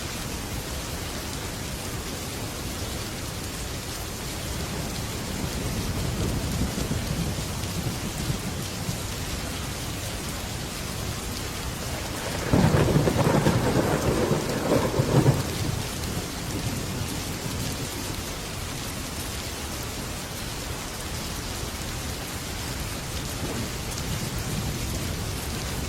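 Heavy rain falling steadily on a metal roof, with thunder: a low rumble swelling a few seconds in, then a louder peal about halfway through that rumbles for about three seconds before fading back into the rain.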